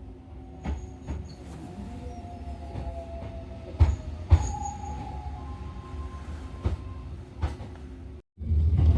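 Hakone Tozan Railway electric train running on its mountain track: a low steady rumble with sharp knocks from the wheels, two loud ones close together about four seconds in, and faint thin wheel squeals. The sound cuts off suddenly near the end.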